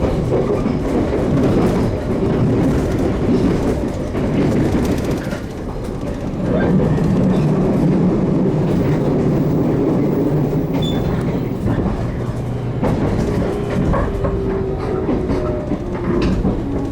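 Running noise of a JR Kyushu 813 series electric train heard on board as it nears a station: a steady rumble of wheels on rail with faint clicks over the rail joints. A few thin tones come in for a few seconds near the end.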